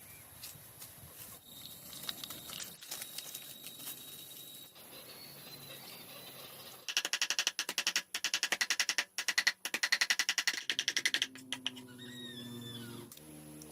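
Animal calls: a loud, rapid pulsing chatter for about four seconds in the middle, then a short wavering call near the end.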